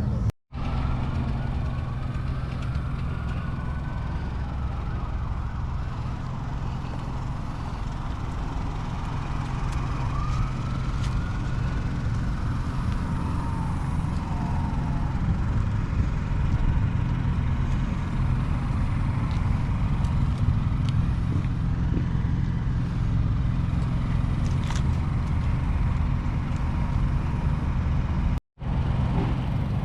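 Car engines running with a steady low rumble, while a siren wails up and down twice in the first half.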